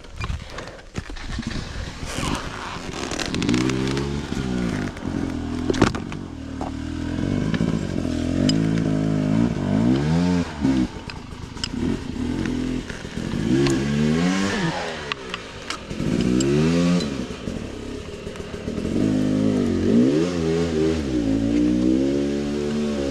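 Motorcycle engine revving up and falling back again and again, with a few sharp knocks and rattles, the loudest about two and six seconds in.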